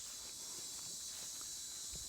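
Steady high-pitched chorus of insects trilling, with faint footsteps on the trail beneath it.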